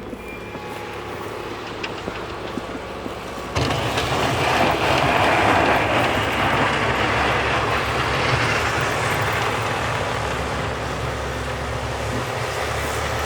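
Large truck running close by: its reversing alarm beeps briefly at first, then a low engine rumble and a heavy rushing noise jump suddenly louder about three and a half seconds in and stay loud.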